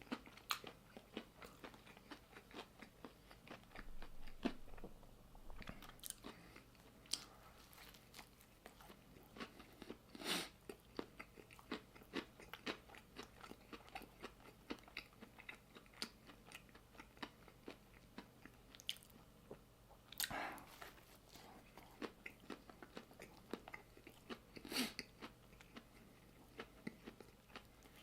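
Close-up chewing of a crunchy chicken sandwich: a steady run of small crunching clicks, with three louder crunching bites about a third of the way in, about two-thirds in and near the end.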